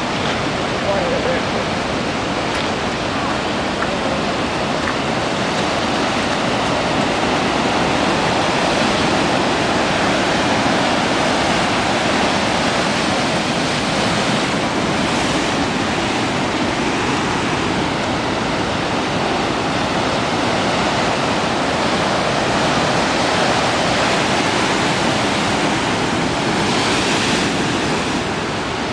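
Large ocean waves breaking and surf rushing, a steady heavy wash of water.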